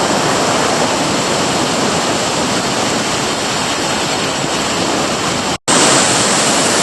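Loud, steady roar of river rapids rushing over rocks. It cuts out for an instant near the end and comes back slightly brighter.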